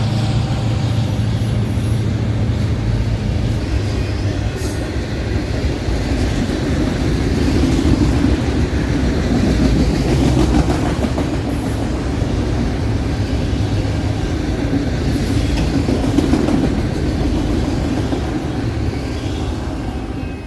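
Freight train cars rolling past, a continuous rumble of steel wheels on rail with clickety-clack over the joints. A diesel locomotive's low drone fades out in the first couple of seconds.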